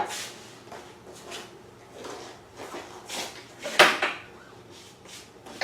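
Small parts being handled and set down: a few scattered clicks and knocks, the loudest one about two-thirds of the way through.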